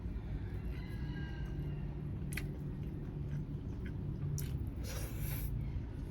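A person chewing and eating grilled chicken over a steady low background rumble, with a sharp click partway through and a short crunchy crackle near the end.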